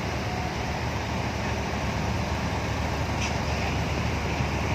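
Steady low rumble of idling heavy-vehicle engines amid outdoor background noise, with a brief high chirp a little over three seconds in.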